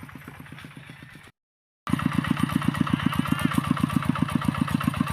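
Small engine running with a steady rapid beat, about ten pulses a second. The sound cuts out for half a second just over a second in, then comes back much louder and closer.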